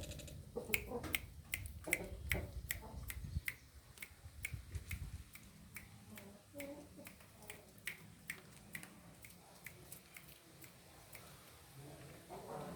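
Short low clucks from a young chicken among sharp irregular clicks, a few a second. A low rumble runs under the first five seconds.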